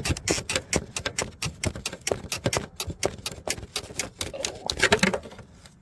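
Quick, irregular clicking and rattling of a plastic fuel-line T-fitting being wiggled and worked loose from a diesel fuel filter.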